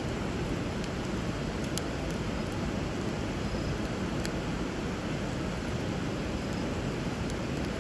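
Wood fire crackling with a few sharp pops, over the steady rush of flowing river water.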